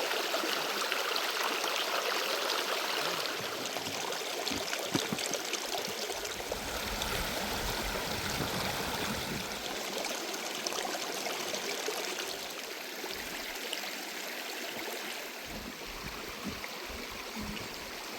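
Water flowing steadily, like a stream, with a few low bumps now and then.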